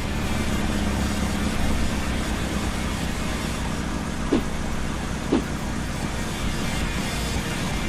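Cartoon vehicle engine sound effect, a steady low rumble, with two short rising squeaks about a second apart midway.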